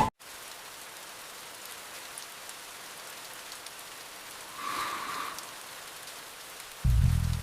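Steady rain falling as an even hiss, with a brief swell about five seconds in and a short, loud low thud near the end.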